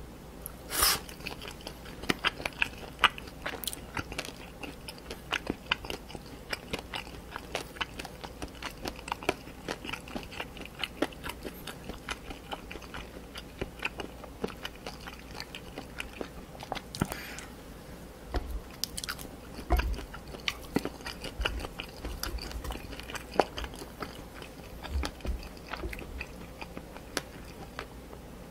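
A person chewing sauce-coated meat close to a microphone: many sharp crunches and wet mouth clicks, with a few low thumps in the second half.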